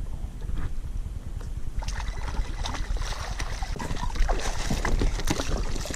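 Water splashing and slapping around a kayak, with irregular splashes and knocks starting about two seconds in, over a steady low rumble of wind on the microphone.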